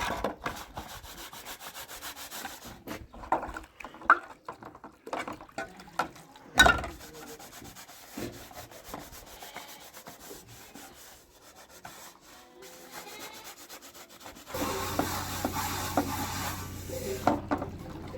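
Rubbing and scraping, a dense run of small scrapes with a few sharp knocks. About three and a half seconds before the end it gives way to a steady hiss with a low hum.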